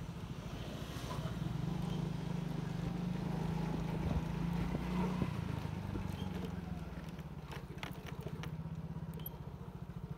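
Small motorcycle engine running at low speed, a steady low pulsing throb, with a few light ticks about three-quarters of the way through.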